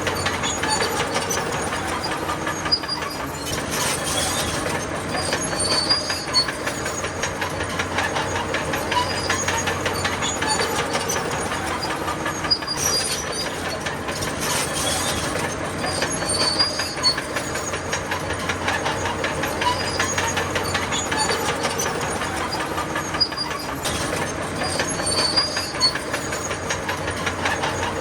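Crawler bulldozer working: its diesel engine runs steadily under a continuous clatter of steel tracks, with short high squeaks from the track links recurring every few seconds.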